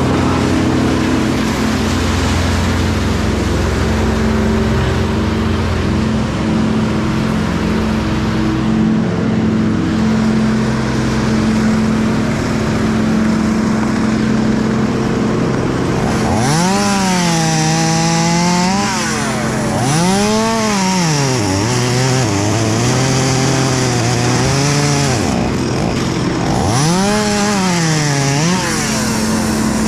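An engine runs steadily, then about halfway through a chainsaw is revved up and down over and over, its pitch climbing and dropping in repeated swells.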